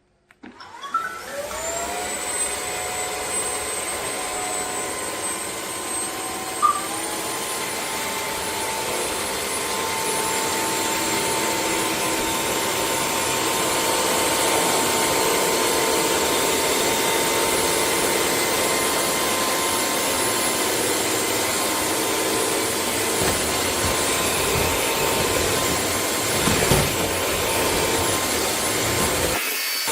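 A wet-dry vacuum cleaner switching on about half a second in, its motor whine rising as it spins up. Around seven seconds in the pitch steps up higher, and then it runs steadily. There is a brief knock just before the step and some rattling near the end.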